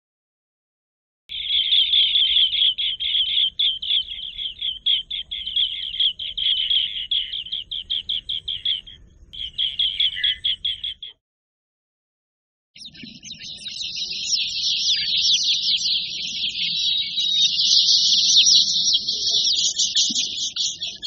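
Recorded bird calls in two separate clips. First a rapid series of short, high chirps repeated several times a second for about ten seconds. Then, after a short silence, a denser, higher chattering of many notes runs on to the end.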